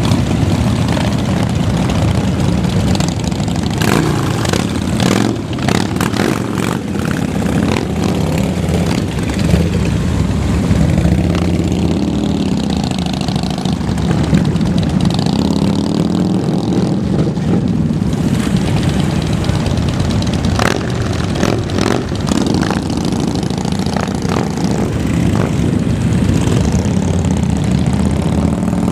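Several motorcycle engines running together, idling with repeated revs that make the pitch rise and fall.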